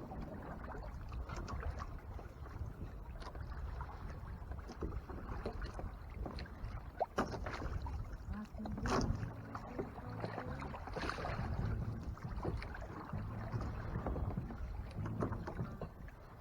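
Water lapping and slapping against the hull of a Hobie Tandem Island sailing kayak, with scattered small knocks and splashes.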